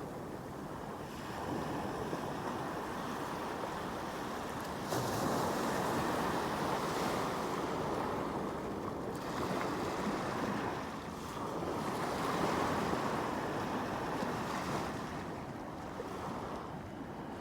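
Sea waves breaking and washing up the shore in a steady rush, swelling in two surges, the first arriving suddenly about five seconds in.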